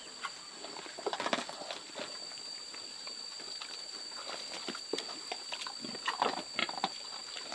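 An animal's calls and noises in short clusters, about a second in and again near the end, over a steady high-pitched whine.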